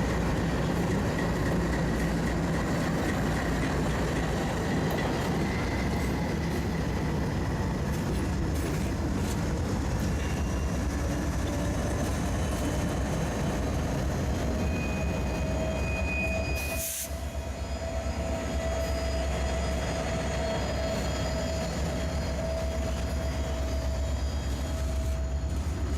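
Freight train cars rolling past with a steady rumble, their wheels squealing in thin, steady high tones. The sound dips briefly about two-thirds of the way through.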